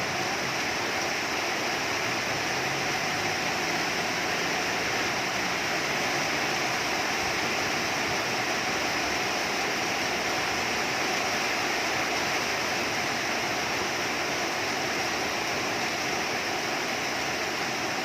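Heavy rain falling steadily, an even, unbroken hiss. A faint low wavering hum shows under it in the first few seconds.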